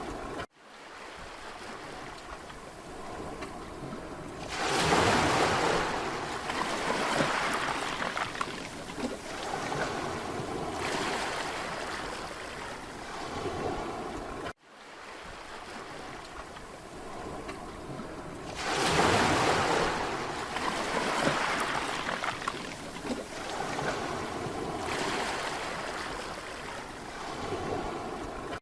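Sea waves on a Mediterranean beach: a steady wash of surf, with a wave breaking loudly about five seconds in and again about nineteen seconds in. The sound cuts out for an instant twice, about half a second in and about fourteen and a half seconds in, and the same stretch of surf then repeats.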